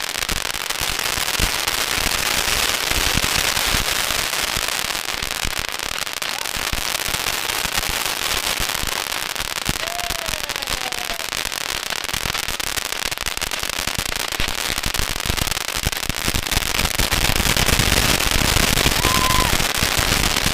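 Strings of firecrackers going off in a dense, continuous crackle of rapid small bangs, growing a little louder near the end.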